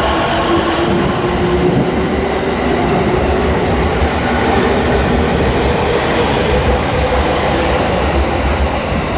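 E231-series electric commuter train pulling out and gathering speed, its traction motors whining with a slowly rising pitch over a steady rumble of wheels on the rails.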